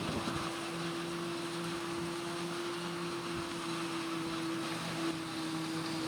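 Heavy farm machinery running steadily through a maize harvest: a constant engine drone with a steady whine over it.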